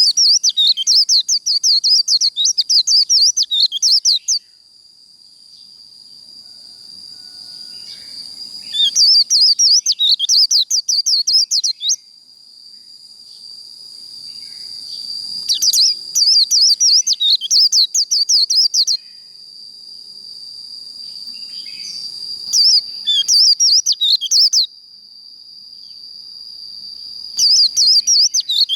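White-eye (vành khuyên) singing its fast chattering 'líu' song in bursts of about three to four seconds, five times, over a steady high buzz that swells in the gaps between bursts.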